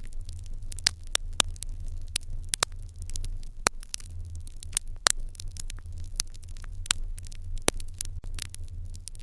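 Wood fire in an irori hearth crackling, with irregular sharp pops and snaps a few times a second over a steady low hum.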